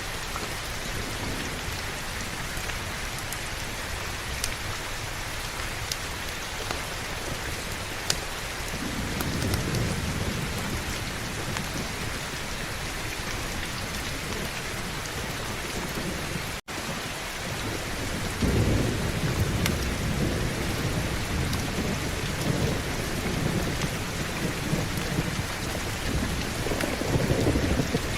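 Steady heavy rain with rolling thunder rumbling low beneath it, first about a third of the way in and again more strongly after the middle and near the end. The sound cuts out completely for a split second just past halfway.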